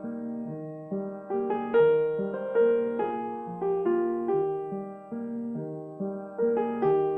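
Solo piano playing a slow, gentle melody over chords, each note struck and left to die away.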